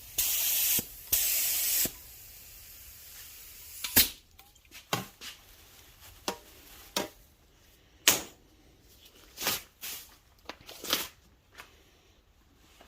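Paint spray hissing in short bursts, with two brief breaks, then stopping after about two seconds. A scatter of light clicks and knocks follows.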